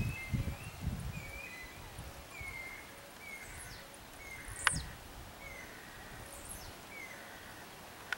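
Blue-black grassquit singing: short, sharp high notes that drop steeply in pitch, a couple of seconds apart, the loudest about halfway through. Another bird repeats a short warbling note about once a second.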